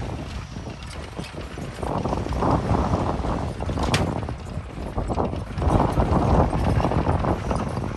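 Heavy diesel machinery running with a low rumble and irregular clattering, louder in two stretches, with a sharp click about four seconds in.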